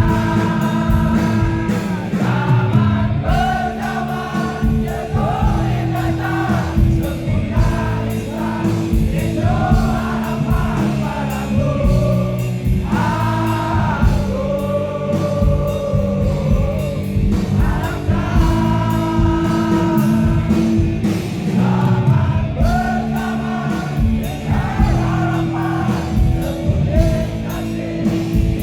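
Live rock band playing a song with singing over a dense, steady backing of drums and bass.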